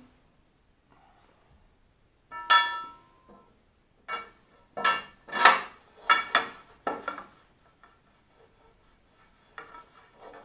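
Metal parts being handled on a lathe bed: a series of sharp clanks and clinks, some ringing briefly, clustered about two and a half seconds in and through the middle, with a few more near the end.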